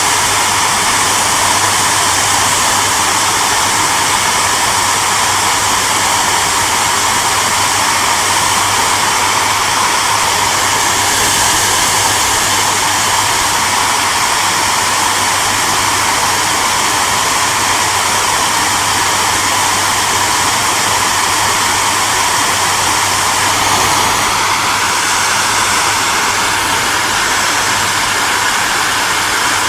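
Hair dryer running steadily: an even rushing airflow over a low motor hum, its tone shifting slightly about 24 seconds in.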